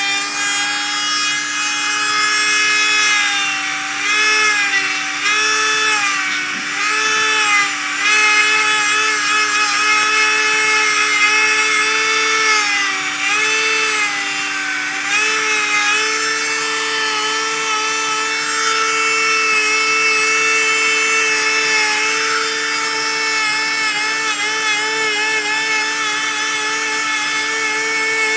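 Mini die grinder running at high speed, a high whine whose pitch dips again and again as the bit bears into the work during the first half, then runs steadier under lighter load.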